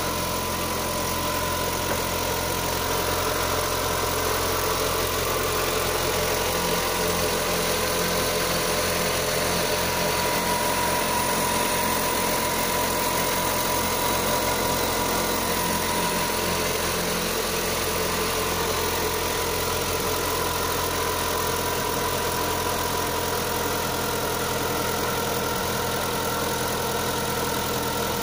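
Opel Zafira A's 1.8-litre X18XE1 four-cylinder petrol engine idling steadily on a cold start, with a knock that the owner attributes to a worn intake manifold.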